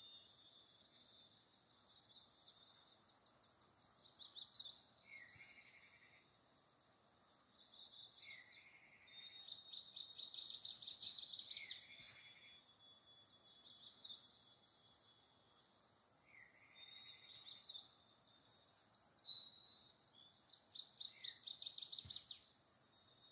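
Faint birdsong: bursts of high chirps and rapid trills with lower buzzy notes, coming every few seconds.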